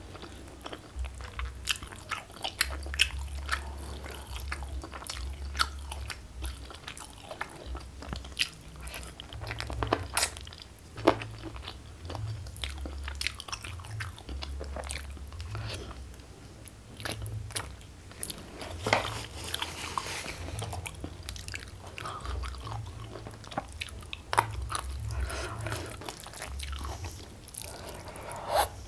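Close-miked chewing and mouth sounds of a person eating chicken and rice by hand, with many short sharp clicks.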